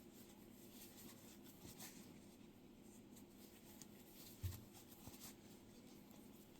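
Near silence with faint, scratchy rustling of a crochet hook working yarn, and one soft low thump about four and a half seconds in.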